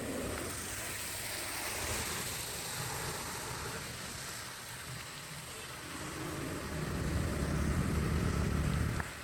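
Flowing water rushing steadily, with a low rumble that swells near the end and cuts off suddenly.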